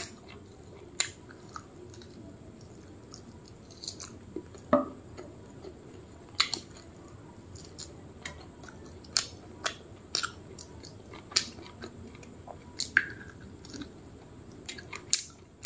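Close-up chewing of a mouthful of rice and mutton curry, with wet mouth and lip smacks that come as sharp clicks every second or two.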